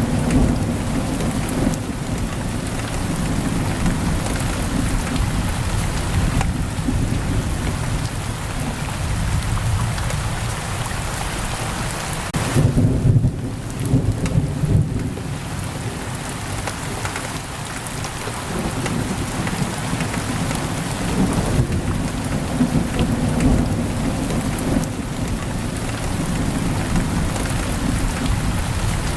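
Heavy rain pouring steadily, with a continuous low thunder rumble that swells louder about halfway through.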